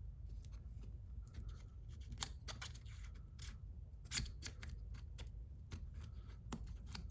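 Faint, scattered clicks and light scrapes of hand work on transmission parts as a seal ring is worked onto its groove with fingers and a sizing tool, with a sharper click about 4 seconds in.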